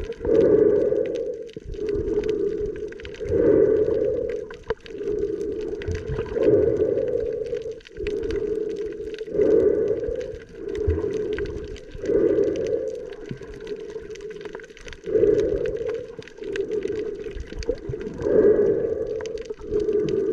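Snorkeller breathing through a snorkel with the head underwater: slow, regular breaths with a strong swell about every three seconds and a softer one between, muffled and gurgling through the tube and the water.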